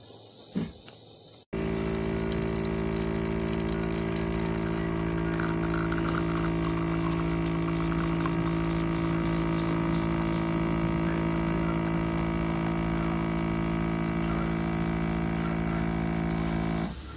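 Espresso machine's vibratory pump starting abruptly and running with a steady, even hum, then stopping just before the end.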